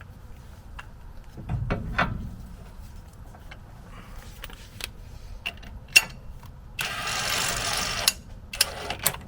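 Scattered metal clicks and knocks of tools and parts being handled, with a heavier low thump about a second and a half in and a hiss lasting about a second near the end.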